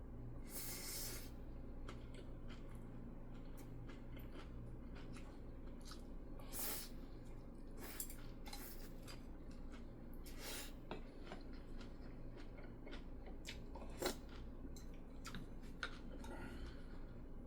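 Eating sounds at a home meal: utensils clicking and scraping against dishes, with chewing and a few short rustling noises, over a low steady hum.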